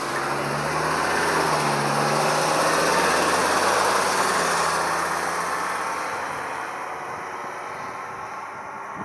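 A road vehicle driving past: engine and tyre noise swell to a peak about three to four seconds in and then fade away.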